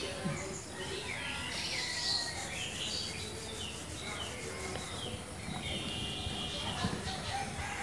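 Birds calling in short, repeated falling chirps over the steady low noise of a motorcycle riding on a wet road.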